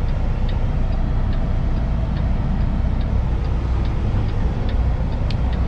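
Heavy diesel truck engine running steadily, heard from inside the cab, with a light ticking about once or twice a second from the turn-signal indicator ahead of a turn.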